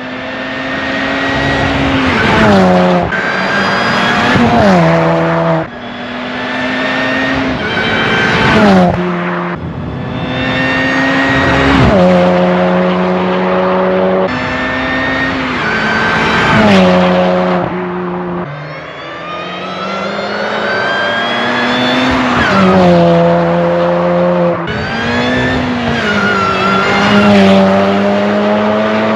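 R53 Mini Cooper S's supercharged 1.6-litre four-cylinder accelerating past several times. Its engine note and the high supercharger whine climb as it revs, then fall away sharply as it passes.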